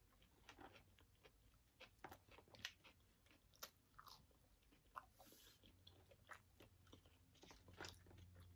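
Faint eating sounds close to the microphone: a person biting and chewing food, heard as small crunches and mouth clicks at an uneven pace, over a faint low hum.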